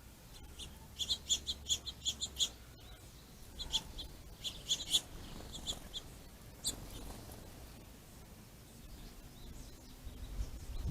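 Small songbirds chirping: quick runs of short, sharp chirps come in three bouts, about a second in, around four to five seconds in, and once near seven seconds. A faint low rumble follows near the end.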